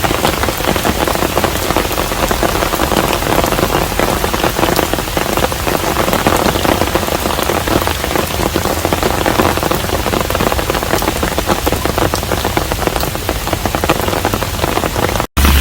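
Steady rain falling on a hanok, a dense even hiss full of individual drop hits. It breaks off abruptly near the end.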